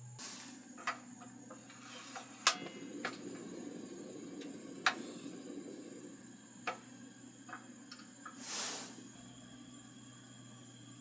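Scattered sharp clicks and light knocks, the loudest about two and a half seconds in, with two short rushes of noise: one at the start and one about eight and a half seconds in.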